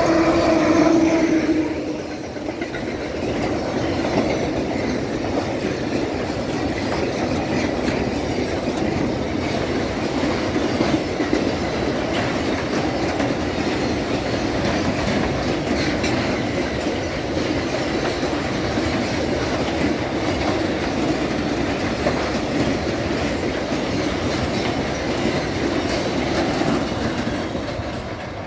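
Freight train of empty double-deck car-transporter wagons passing close behind an electric locomotive: a steady rumble with wheels clicking over the rail joints and some wheel squeal. The first two seconds, as the locomotive passes, are the loudest and carry two steady tones, the end of its horn; the sound dies away near the end as the last wagon goes by.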